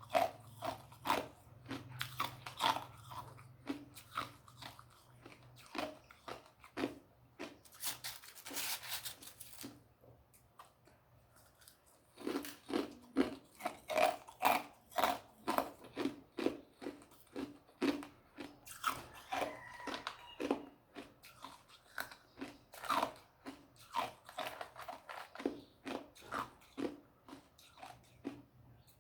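A person crunching and chewing ice cubes with the teeth: a long run of sharp crunches, about two a second, with a brief lull around ten seconds in.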